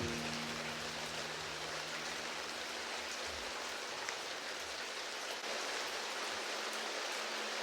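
Steady rain falling, an even patter, with a held low piano note fading away beneath it.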